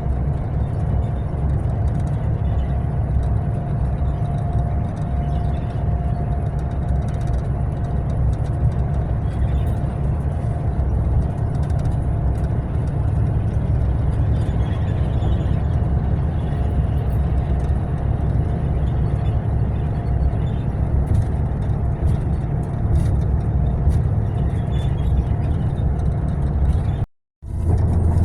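Mercedes-Benz long-distance coach on the move: a steady low rumble of engine and road noise with a constant whine running through it. Near the end the sound cuts out completely for a moment and comes straight back.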